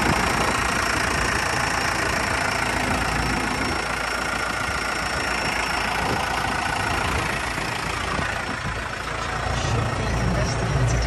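New Holland TS100A tractor's diesel engine idling steadily.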